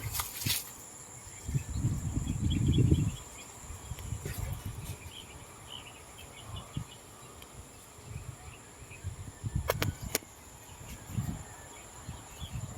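Outdoor insect chorus: a steady high-pitched buzzing trill that never lets up, with low rumbling gusts, loudest about two seconds in, and a few sharp clicks near the start and again about ten seconds in.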